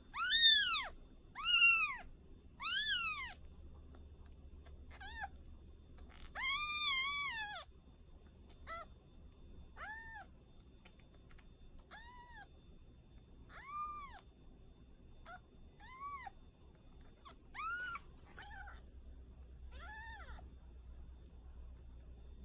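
A week-old kitten mewing over and over, about a dozen high calls that each rise and fall in pitch. The first few are loud, one about seven seconds in is longer, and the rest come softer every second or two.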